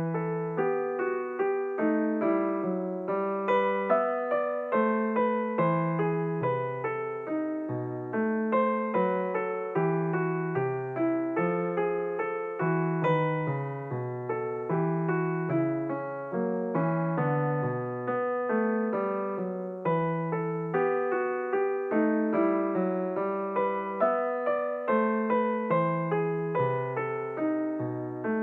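Background music: solo piano playing a steady flow of notes, each struck and fading.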